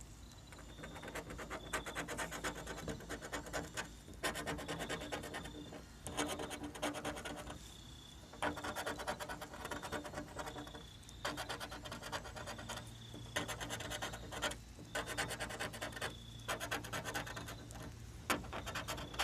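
Scratch-off lottery tickets being scratched: rapid back-and-forth scraping across the card's coating in repeated spells of a second or two, with short pauses between.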